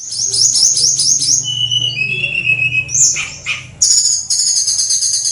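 Oriental magpie-robin (kacer) singing: a fast run of high repeated notes, a few lower whistled notes in the middle, then another rapid high trill from about four seconds in.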